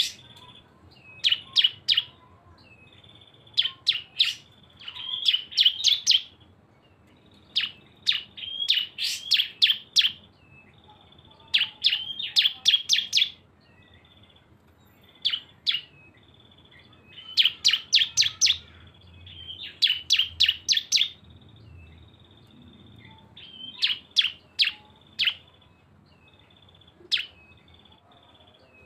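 Bar-winged prinias (ciblek) singing in the rapid 'bren' style: repeated bursts of fast, sharp chipping notes, each burst about a second long, with a thin high trill running between the bursts.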